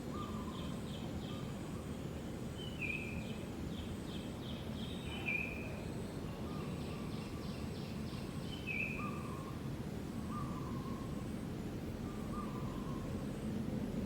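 Steady outdoor background noise with a low rumble, over which short high chirping calls come every second or two, some as quick ticking trills.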